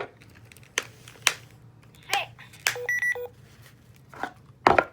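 Baby Alive Potty Dance doll's electronics in test mode: a few sharp clicks, a short chirp from its speaker, then short electronic beeps in two pitches about three seconds in. A louder knock comes near the end.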